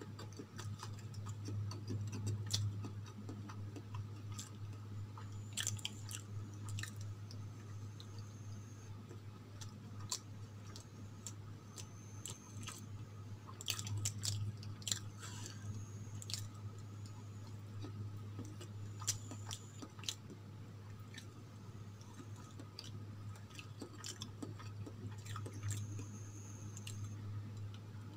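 Close-up chewing and mouth sounds of a person eating soft idli dipped in chutney and sambar, with scattered short wet clicks and smacks. A steady low hum runs underneath.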